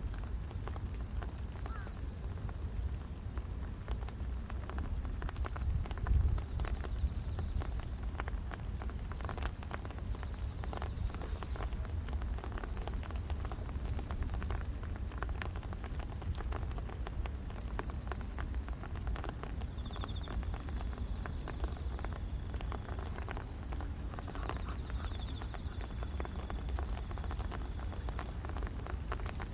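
Grass insects calling: one steady high-pitched trill runs on without a break, while another insect chirps in short pulses about once a second, over a steady low rumble of ambient noise.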